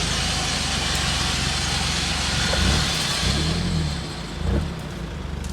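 Off-road 4x4 engine running under load, its revs rising and falling in the middle, over a steady hiss that dies away about four seconds in.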